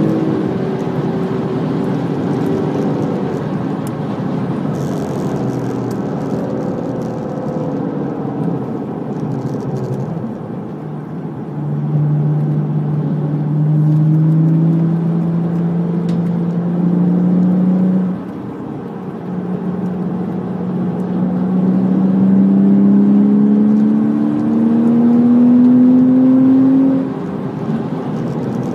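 Porsche Cayman S flat-six engine heard from inside the cabin, with wind and tyre noise. It runs at high revs at first and the revs fall as the car slows for a corner. From about twelve seconds in it pulls up from low revs, drops off briefly about two-thirds of the way in, climbs again, and falls off sharply near the end.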